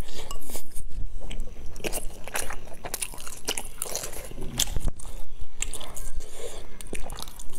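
A person biting and chewing a soft, dark stuffed food with a rice filling close to the microphone: many quick mouth clicks and smacks.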